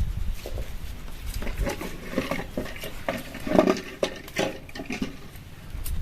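Irregular light knocks and clinks of cooking pots and utensils being handled, with a few short pitched sounds mixed in.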